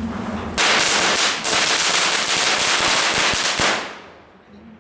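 A Standard Fireworks firecracker going off in a fast, dense string of cracks for about three seconds. It starts about half a second in and dies away near the end.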